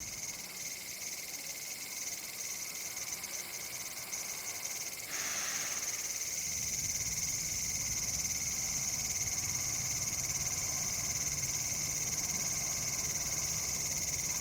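Cicadas calling in chorus: a high, steady buzzing drone that stutters at first and then runs continuous and louder from about five seconds in, with a fainter lower-pitched steady trill beneath it.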